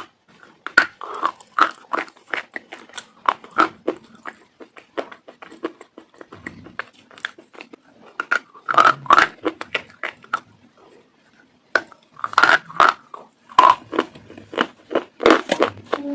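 Close-up biting and chewing of something crunchy: irregular crisp crunches, with louder clusters of bites about nine, twelve and fifteen seconds in.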